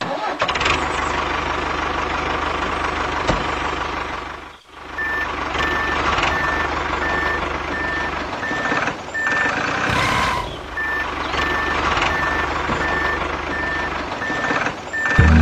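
Vehicle reversing alarm beeping about twice a second over a steady running engine noise, with a short break in the beeping partway through.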